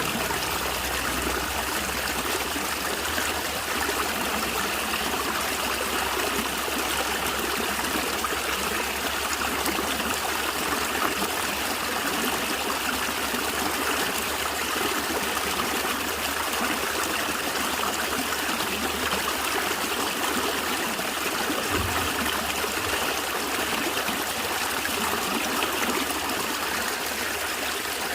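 Stream water flowing and gurgling steadily over rocks.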